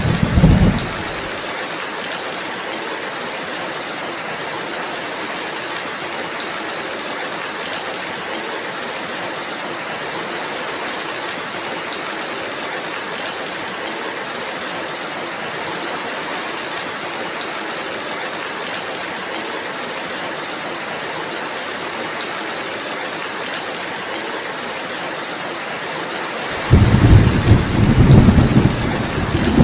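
Steady rain with thunder. A roll of thunder dies away about a second in, leaving an even rain hiss, and a new loud, rumbling roll of thunder starts near the end.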